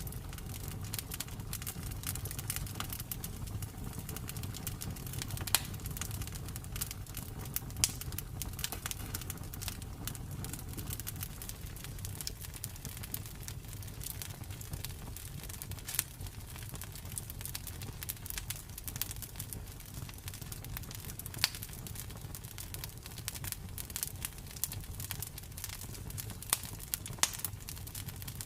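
Campfire burning steadily with a low rumble of flame and frequent scattered crackles and pops of burning wood.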